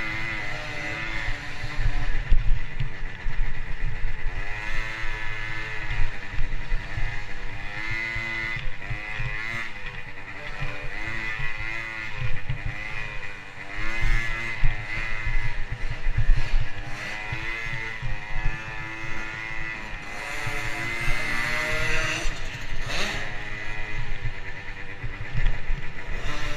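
Motocross bike engine revving up and falling back again and again as it is ridden, its pitch climbing and dropping every second or two over a steady low rumble.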